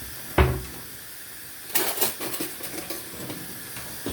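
Cooking pots and lids clattering: a solid knock about half a second in, a quick run of metal clinks a little before two seconds in, then scattered light clinks, over a steady hiss.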